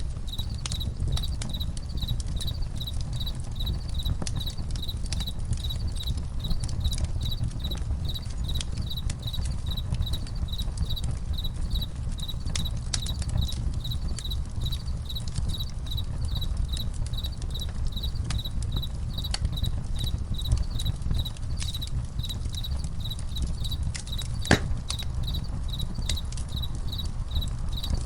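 Campfire crackling, with many small sharp pops over a low steady rumble and one louder pop near the end. Crickets chirp steadily at about two chirps a second.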